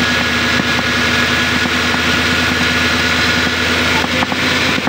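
Nissan Patrol Y62 engine idling steadily with a fast, even ticking over the engine note. It is an odd engine noise the owner cannot place.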